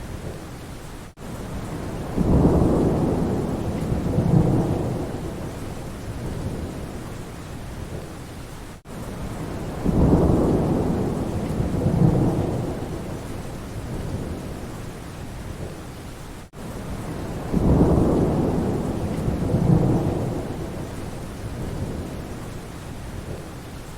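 Steady rain with low rolling rumbles of thunder, two swells in each cycle. The same few seconds of recording repeat about every seven and a half seconds, with a brief dropout at each join of the loop.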